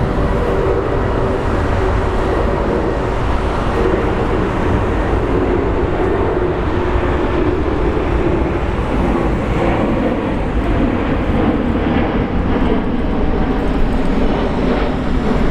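Jet airliner engines running steadily, with a deep, even rumble.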